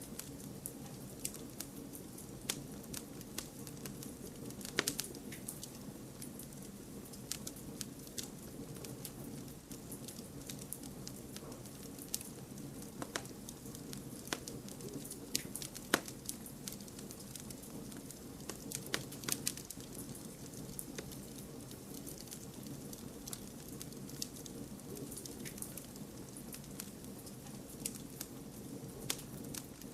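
Wood campfire burning: a steady low rush of flames with frequent small crackles and occasional sharper pops.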